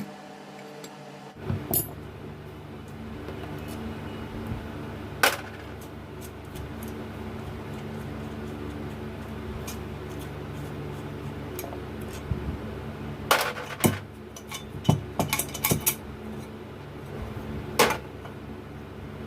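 Metal tools and alternator parts clinking and knocking against each other in scattered sharp strikes, several in quick succession in the second half, over the steady hum of a table fan.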